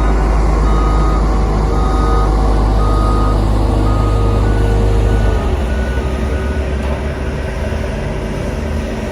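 Heavy road-construction machine running, its diesel engine rumbling under a reversing alarm beeping about once a second. About four seconds in the beeps change to a few shorter, higher, quicker ones, and the engine note drops a moment later.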